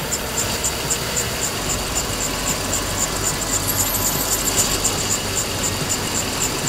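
Car engine running steadily, with a fast, even high ticking over it about three to four times a second.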